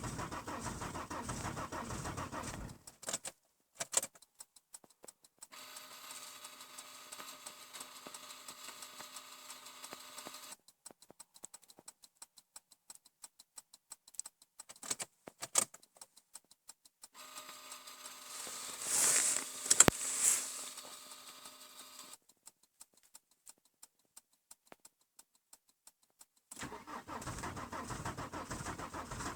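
Volvo V70 2.5 TDI five-cylinder diesel running cold just after a winter cold start. The sound drops out for long stretches, with sharp clicks and a loud rattling clatter about twenty seconds in, before the engine sound returns near the end.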